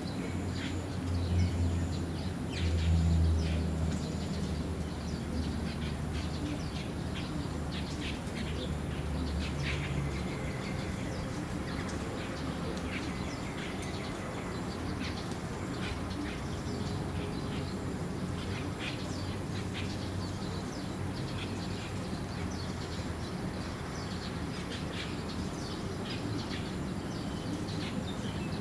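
A flock of birds chirping, with many short, overlapping calls throughout. A low rumble sits underneath for roughly the first ten seconds.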